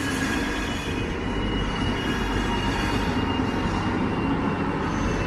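A train running on the track: a steady rumble of wheels on rails, with a faint high whine held throughout.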